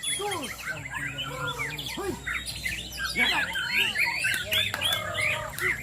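Several white-rumped shamas (murai batu) singing at once in competition, a dense, unbroken mass of overlapping quick whistles and chirps, over a low murmur of people's voices.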